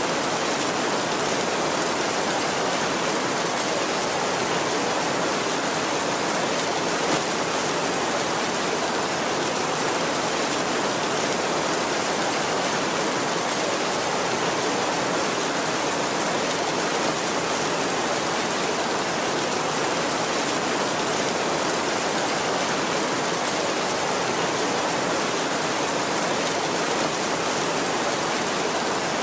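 Heavy rain drumming steadily on a tin roof, a dense even hiss with no let-up.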